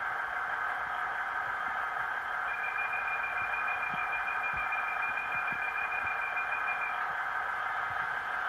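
Recorded diesel-railcar engine sound played by the DCC sound chip of an OO gauge Class 150 DMU model through its tiny on-board speaker: a steady, thin running sound. A steady high tone joins it from about two and a half seconds in and stops about seven seconds in.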